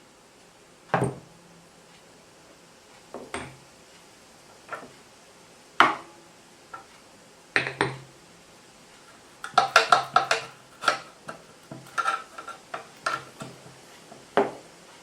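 Scattered clinks and knocks of hard objects being handled, a few single strikes, then a quick run of clinks in the later part, some with a short ring.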